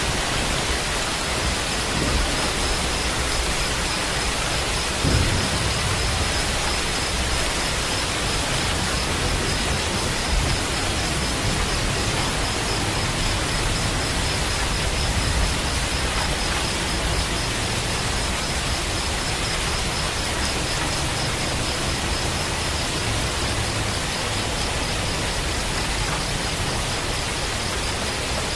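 Steady heavy rain, with a brief low rumble of thunder about five seconds in.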